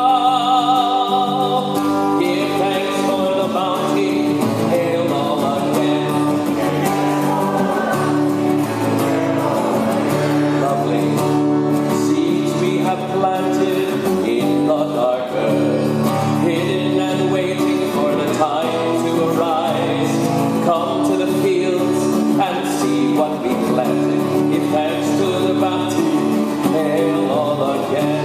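Singing of a folk thanksgiving song, several voices together holding long sung lines.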